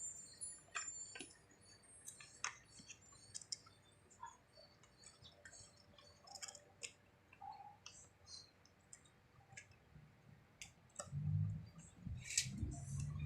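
Faint, scattered clicks and taps of small plastic and metal parts being handled as a replacement electric kettle switch is fitted, with a duller rustle of handling from about eleven seconds in.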